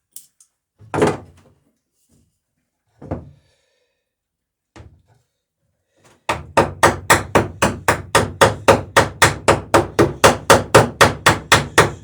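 A few scattered knocks, then about halfway through a fast, even run of hammer blows, roughly four to five a second: a rivet being peened over while the sheer strake planking of a wooden dory is riveted.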